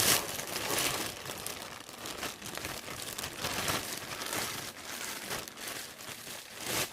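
Takeout seafood boil bag or wrapping crinkling and rustling as it is handled and opened, with irregular crackles throughout.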